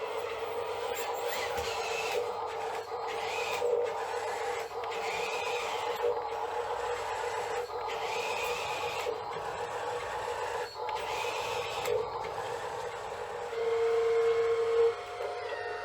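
Whine of an RC model's electric motor and hydraulic pump, rising in short spells as the controls are worked, and louder for about a second near the end.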